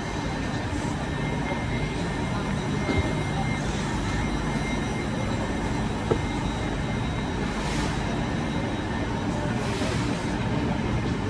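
Eurostar train running: a steady rumble and rush with a faint high whine, two light knocks and two short swells of hiss.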